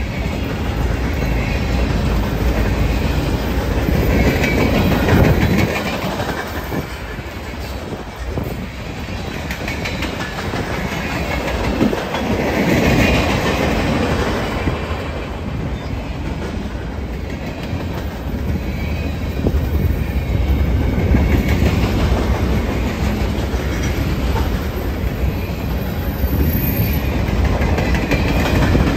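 Freight train rolling past, its cars' steel wheels clattering on the rails, the sound swelling and easing every several seconds.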